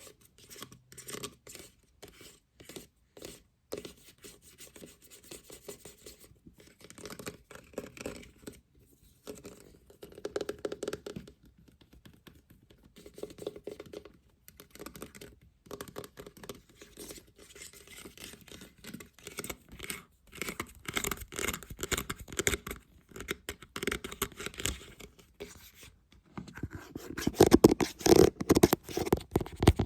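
Scratching and tapping on a lid: dense runs of small clicks and scrapes, getting louder near the end.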